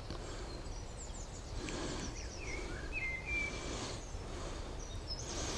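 Birds chirping in the distance, with a few short sliding whistled notes about halfway through, over a steady low outdoor background noise.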